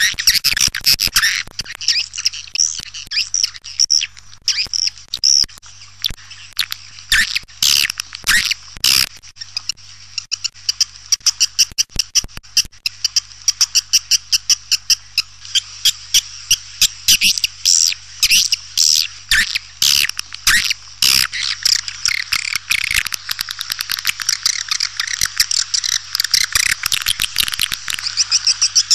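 Swiftlet calling sound: a dense chatter of rapid, high twittering chirps from swiftlets, settling near the end into a steady run of short chirps about three a second, over a faint steady low hum. This is the kind of call track played to lure swiftlets into a nesting house.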